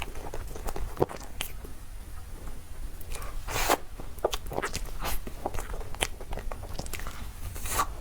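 Close-miked eating sounds of someone biting and chewing cake: irregular mouth clicks and smacks, with louder ones about three and a half seconds in and near the end.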